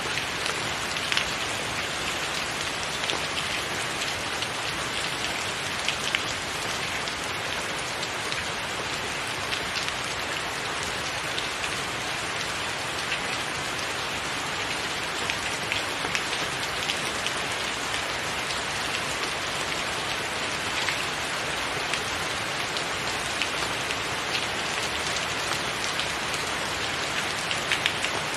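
Steady rain falling, an even hiss with frequent sharp, close drop impacts.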